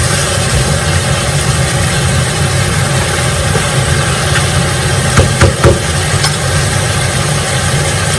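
Chicken pieces frying in oil in a pot under a steady, loud mechanical hum, with a few sharp utensil knocks about five seconds in.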